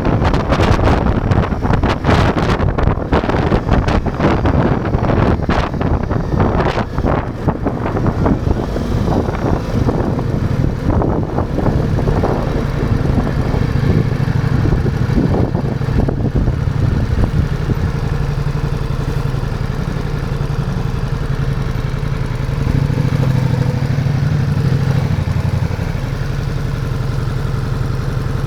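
Ducati Multistrada V4's V4 engine running under way, with wind buffeting the microphone for the first several seconds. It then settles into a steady low engine note.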